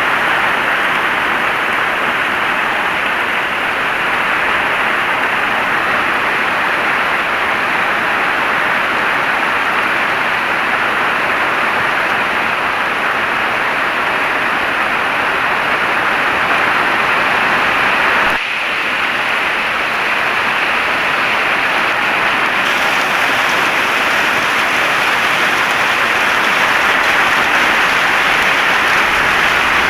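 Heavy rain falling steadily, a dense even downpour, with a brief dip in level about two-thirds of the way through.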